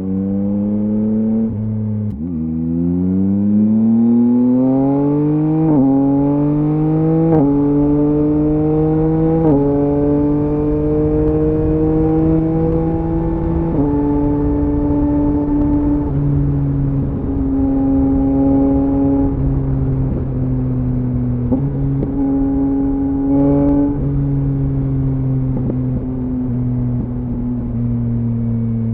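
Yamaha MT-09's inline three-cylinder engine through a LeoVince LV Race exhaust, accelerating through the gears: the pitch climbs and breaks sharply at four quick upshifts in the first ten seconds, then holds fairly steady with small throttle changes and a few more shifts.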